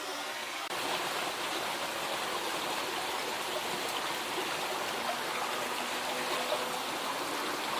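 River water flowing and rushing, a steady even noise that steps up slightly just under a second in.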